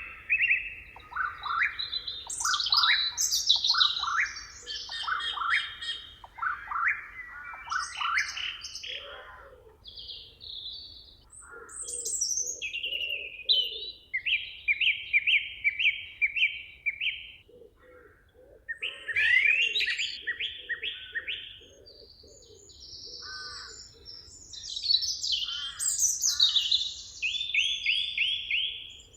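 Several songbirds singing together in a forest chorus: overlapping high chirps, fast trills and phrases of repeated notes. A lower-pitched call repeated several times a second comes in twice, once near the middle and again a few seconds later.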